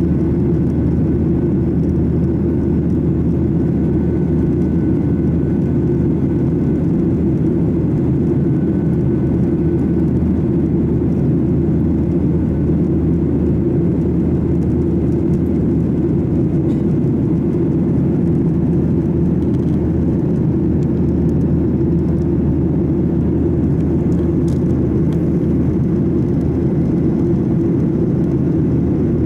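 Steady cabin noise inside an airliner in flight: an even, low drone of engines and airflow that does not change.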